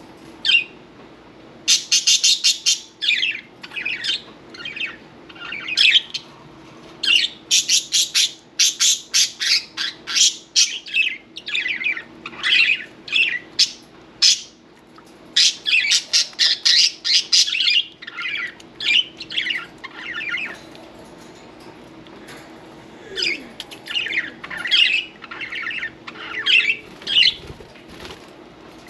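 Several budgerigars chirping, chattering and squawking in quick runs of short, high calls, with brief lulls between the bursts.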